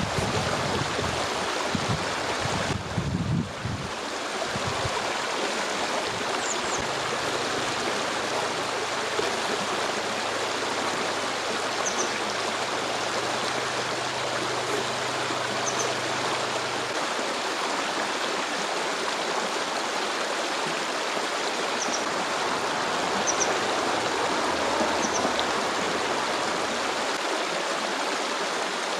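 Stream water flowing steadily, a continuous even rush. Wind buffets the microphone in the first few seconds, and a few brief faint high chirps sound now and then.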